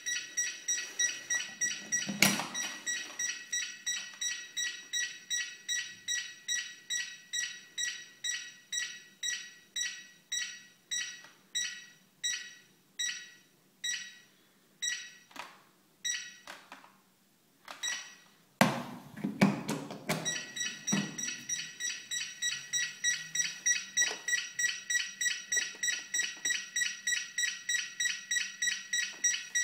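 Aircraft Pilot Lux vacuum cleaner and its faulty docking station giving a rapid, repeating two-tone beep, about two to three a second. The beeps fade and die away past the middle. After a clunk they start up again, slightly faster.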